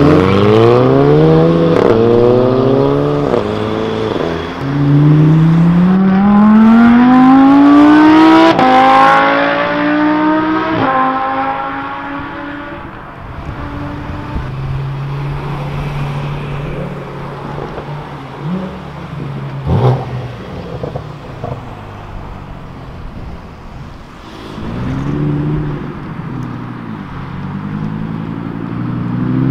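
Car engines accelerating hard, revving up through the gears in long rising sweeps, the first from a lowered VW Golf. Later an engine runs steadily with a sharp crack, a few short revs, and an Audi R8 starts revving up at the very end.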